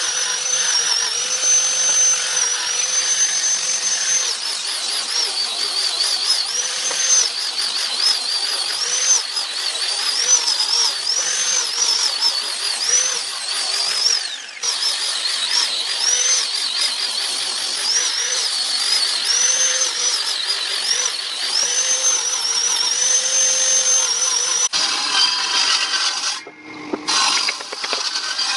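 A high-speed electric power tool cutting or shaping wood, its whine dipping and recovering over and over as it takes load. It stops briefly about halfway through.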